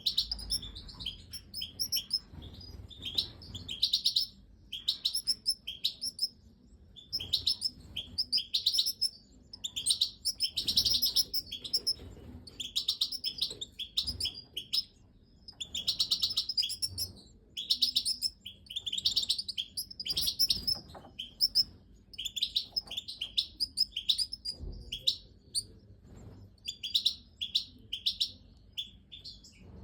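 European goldfinches of the Major race chirping: rapid, high-pitched chirps in bursts a second or two long, repeated again and again.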